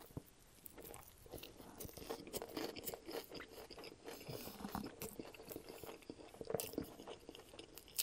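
A person chewing a mouthful of a Subway double-meat BMT sub close to the microphone: a steady, irregular run of small wet clicks and crackles from the mouth and the bread.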